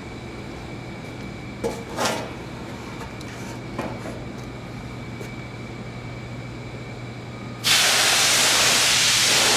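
Steady low hum of machinery with a faint high whine, broken by two short knocks about two seconds in. Near the end a loud, even hiss cuts in suddenly.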